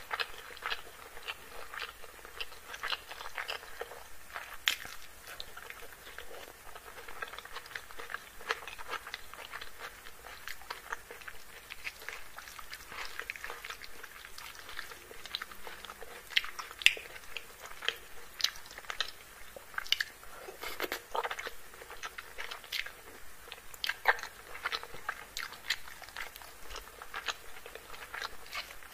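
Close-miked eating by hand: chewing and crunching mouthfuls of chicken curry and rice topped with crispy fried onions, a dense, irregular run of short crisp clicks.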